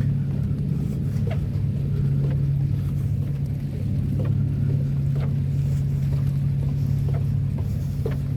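A steady low engine drone that does not change, with faint short high chirps about once a second.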